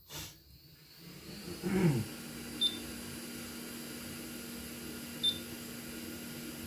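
Hot-air heat gun switched on: a click, the air flow swelling up over about two seconds, then a steady rushing hum. Two short high beeps sound about two and a half seconds apart while it blows.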